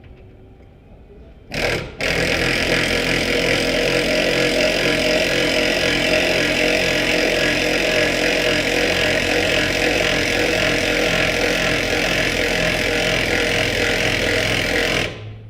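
Impact wrench hammering continuously as it drives a car scissor jack's screw. It starts abruptly about a second and a half in and runs for some thirteen seconds before stopping.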